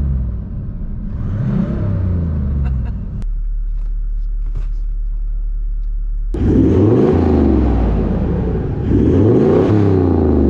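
Toyota LandCruiser 79 series engine accelerating hard through the gears, its pitch climbing and dropping back at each gear change. A quieter steady stretch in the middle is followed by louder climbs.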